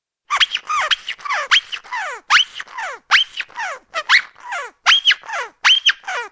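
Rubber duck squeak toy squeezed hard over and over, about eight squeeze-and-release cycles, each a short sharp squeak followed by a whistle gliding down in pitch.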